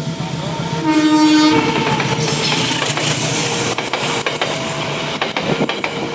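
Pasundan passenger train passing close by: its horn gives one short blast about a second in, then the cars rush past with the rapid clickety-clack of wheels over rail joints.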